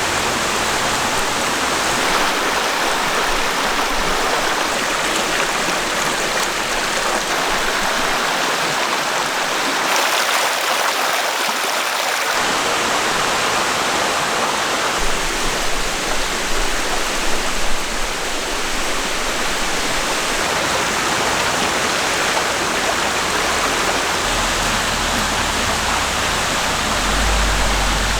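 Small mountain stream flowing over rocks: a steady, even rushing of water, with a low rumble coming and going in the second half.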